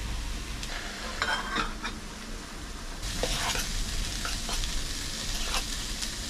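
Peppers frying in olive oil in a pot on a camp stove, sizzling, while a utensil stirs them with several short scrapes against the pot. The sizzle grows louder about three seconds in.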